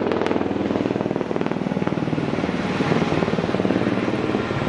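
Helicopter running, its rotor blades chopping steadily in a fast even beat, with two short clicks right at the start.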